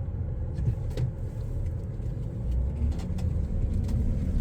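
Pickup truck cabin noise while driving: a steady low engine and road rumble, with a few faint clicks.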